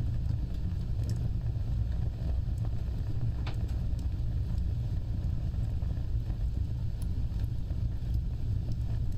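Fire burning with a steady low roar of flames and scattered crackles and pops. The sharpest pop comes about three and a half seconds in.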